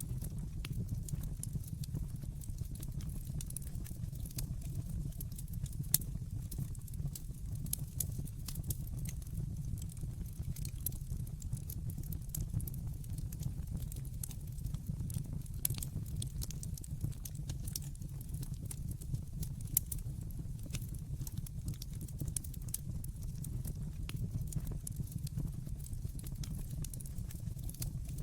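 Wood fire burning in a fireplace: a steady low rumble of the flames under constant fine crackling, with a few sharper pops.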